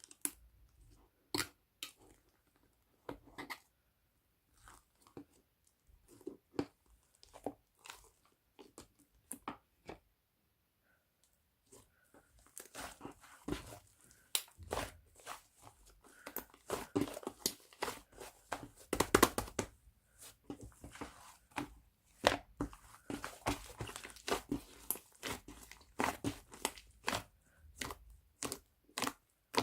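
White slime being squeezed and poked by hand: scattered sticky clicks and pops at first, then, from about halfway in, a dense run of crackling and popping.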